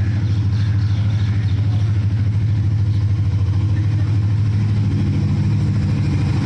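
Diesel locomotive's engine running close by as the train passes, a deep steady drone with a fast, even pulsing.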